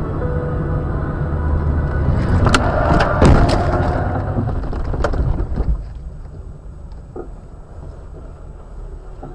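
Car driving noise with a low, steady rumble, broken by several sharp knocks and bangs about two and a half to three and a half seconds in and one more near five seconds. The sound drops to a quieter road noise at about six seconds.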